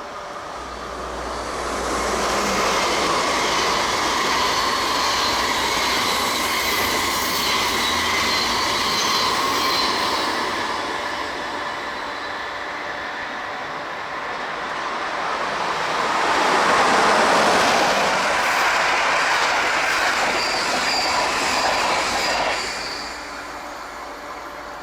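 Train passing on the tracks with rolling wheel and rail noise and a faint high squeal. The sound swells about two seconds in, eases midway, rises again louder and drops off sharply near the end.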